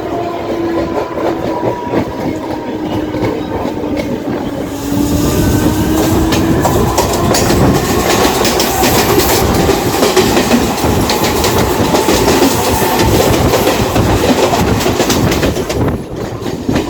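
Mumbai suburban electric local train running, heard on board: a steady hum over rolling wheel noise, then from about five seconds in, much louder rumbling with rapid clicks of the wheels over the rail joints.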